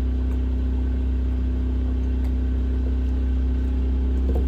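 An engine running steadily at idle, an even low hum that holds unchanged throughout.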